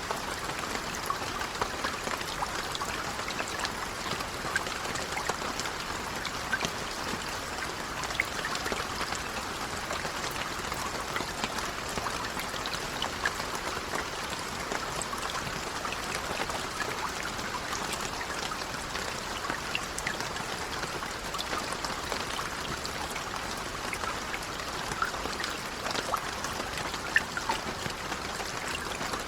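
Steady gentle rain, a continuous hiss dotted with many small drop ticks.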